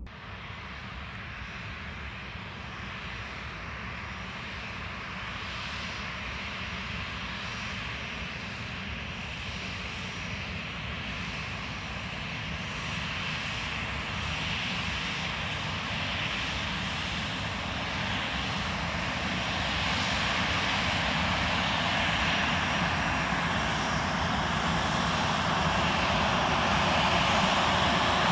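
Jet airliner engines running, a dense rushing noise that grows steadily louder throughout.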